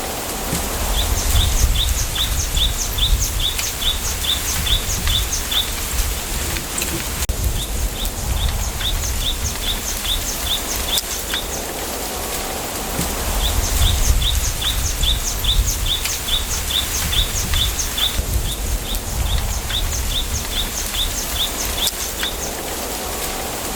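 Wind through a bamboo grove: a steady rustling hiss with a low rumble that swells at times, wind buffeting the microphone. Over it a bird repeats series of short, high chirps, about three a second, each series lasting several seconds, recurring throughout.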